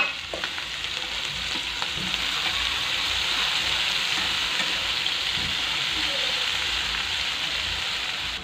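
Chopped tomatoes sizzling in hot oil in a non-stick frying pan while a spatula stirs them, with a steady frying hiss and light scraping. A single sharp tap sounds right at the start.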